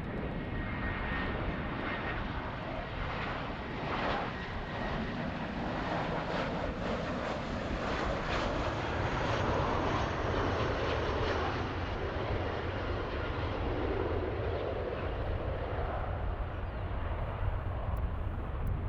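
Jet aircraft engines running as a plane passes: a steady, dense noise that swells slightly around the middle, with a faint high whine slowly falling in pitch.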